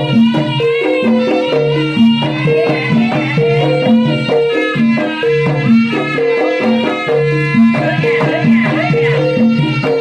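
Javanese traditional ensemble music: a steady repeating pattern of tuned percussion notes, with a melody line wavering above it.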